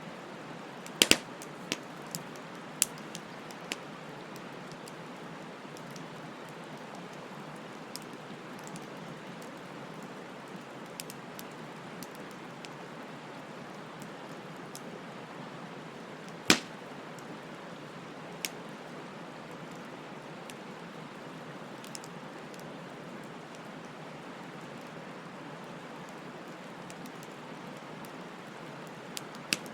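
Wood fire burning with a steady hiss and scattered sharp crackling pops: a cluster of pops about a second in, the loudest single pop around the middle, and another near the end.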